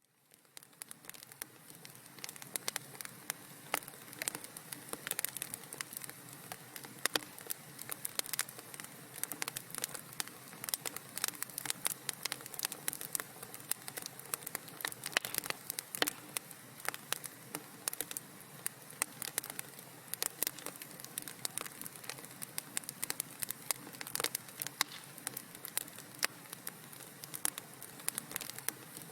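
Wood fire crackling in a fireplace: dense, irregular pops and snaps over a soft steady hiss, fading in over the first second or two.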